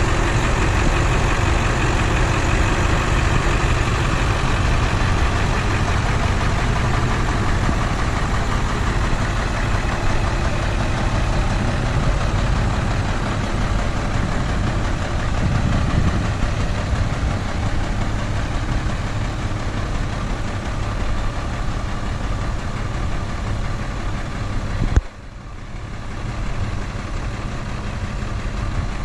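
School bus engines idling steadily after a cold start. Near the end there is a brief sharp peak and the sound drops suddenly, then the idle builds back up.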